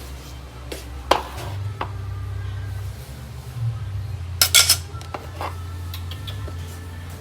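Dishes and metal utensils clinking and knocking, with a quick cluster of sharp clinks about four and a half seconds in, over a steady low hum.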